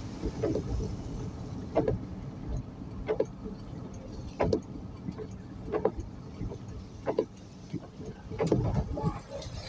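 Car driving in drizzle: steady low road and engine rumble with a short stroke about every 1.3 seconds, in the rhythm of windshield wipers sweeping.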